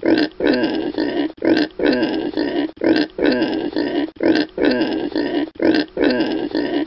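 Domestic pig grunting over and over, about two grunts a second in short runs with brief pauses.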